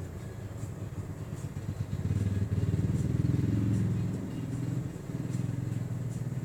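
A taxi's engine running, swelling louder for a couple of seconds about two seconds in, then easing off again.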